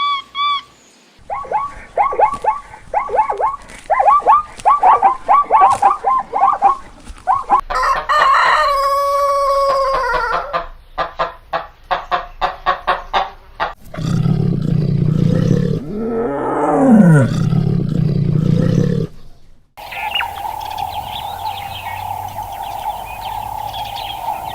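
Chickens clucking in a quick series of short calls, then a rooster crowing once in one long call. Later come a run of rapid clicks, a louder noisy stretch with a falling call, and a steady high tone over noise near the end.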